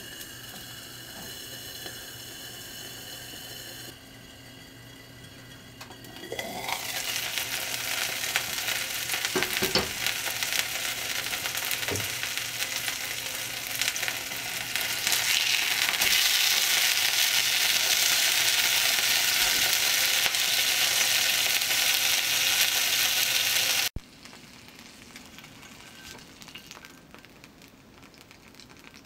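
Hamburger steak patty sizzling in a Nitori cast-iron skillet during steam-frying. The sizzle grows louder a few seconds in and is loudest for a long stretch, then cuts off suddenly about five seconds before the end, leaving only a faint background.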